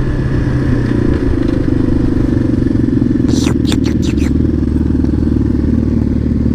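Dirt bike engine running loud under throttle, its pitch stepping up about a second and a half in, with a few short sharp rattles about halfway through.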